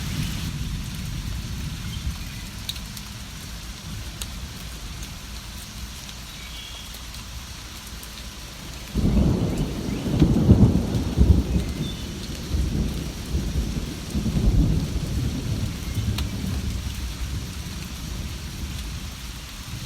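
Steady rain with a roll of thunder that breaks in suddenly about nine seconds in, rumbles in waves for several seconds and then fades.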